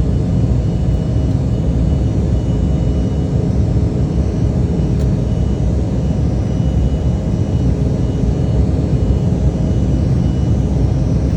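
Embraer E175 jet airliner heard during takeoff: the engines and rushing air make a loud, steady low rumble, with faint steady whining tones over it. A faint click sounds about halfway through.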